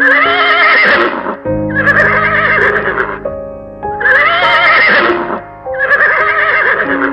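Horse whinnying four times, each call about a second and a half long with a quavering pitch, over background piano music.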